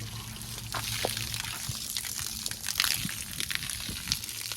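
Water splashing and running during a truck wash, with scattered short splashes over a continuous hiss and a faint low hum underneath.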